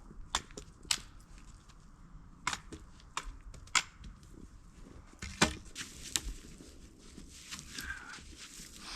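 A series of sharp, irregular snaps and knocks, about six of them spread over several seconds.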